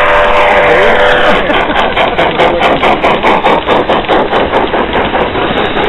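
Garden-scale model train running on its outdoor track, with a rapid, even clicking of its wheels over the rail joints.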